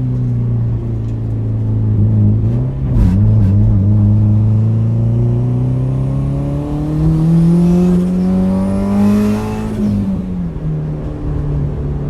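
Turbocharged Subaru WRX flat-four through a straight-pipe exhaust, pulling up a hill: a steady note, a brief dip about three seconds in, then a slow climb in revs. Near ten seconds a rush of hiss comes in and the revs drop off as the throttle closes.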